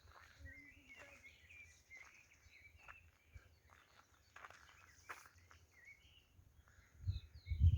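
Small songbirds chirping and twittering in woodland, with short high calls scattered throughout. Two low thumps near the end are the loudest sounds.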